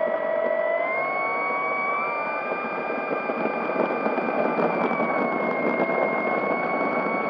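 Electric motor and propeller of an FMS P-40B Warhawk 1400mm RC plane whining in flight, heard from a camera mounted on the plane over a rush of air. The pitch steps up about a second in and again near two seconds with throttle, then eases down a little around five seconds.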